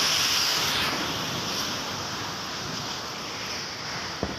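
Floodwater rushing: a steady, even rushing noise, a little louder in the first second, with one short click about four seconds in.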